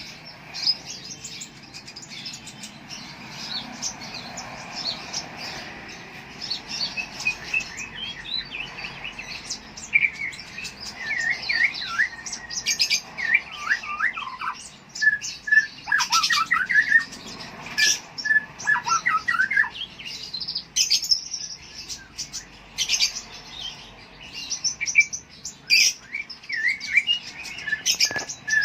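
Kolibri ninja (a sunbird kept as a songbird) singing: a fast, continuous stream of high chirps and twittering trills, with quick down-sweeping notes from about ten seconds in.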